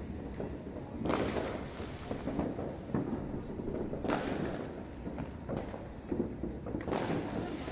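New Year's fireworks going off: a series of booming bursts, the strongest about a second in, around three and four seconds in and near the end, each trailing off in an echo over a continuous din.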